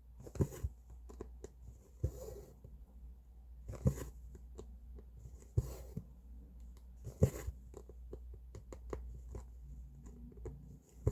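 Cross-stitch needle and thread drawn through fabric, one pull about every second and a half to two seconds, with light clicks between the pulls.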